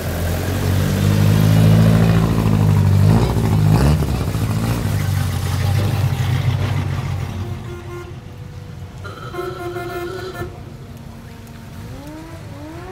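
A loud American car engine rumbling as the car drives off, with a quick change in its pitch about three seconds in before it fades away. Later a car horn sounds, a short toot and then a longer one.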